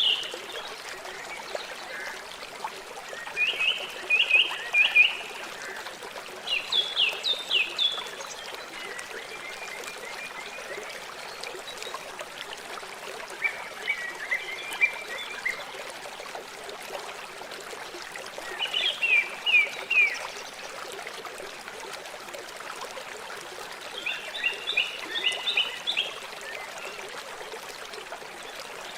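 River water flowing steadily, with a bird calling in short runs of quick repeated high notes every few seconds, about seven runs in all.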